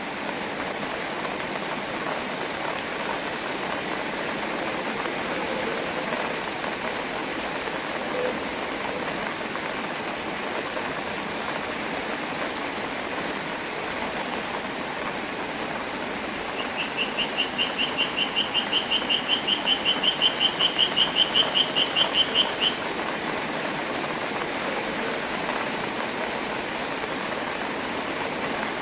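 Steady rain falling. In the second half comes a fast trill of high, evenly spaced chirps, about five a second, that grows louder and then stops after about six seconds.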